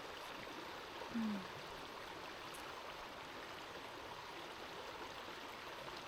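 Creek water flowing steadily at a shallow crossing, with a brief low sound, falling in pitch, about a second in.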